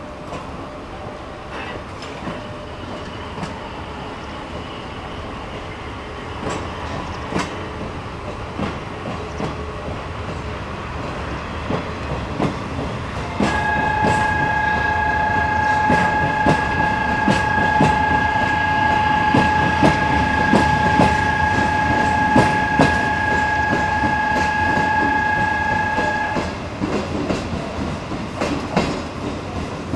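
Freight train rolling on rails, its rumble and wheel clicks over rail joints building up, then easing off near the end. Partway through, a steady high tone begins and holds for about thirteen seconds before stopping abruptly.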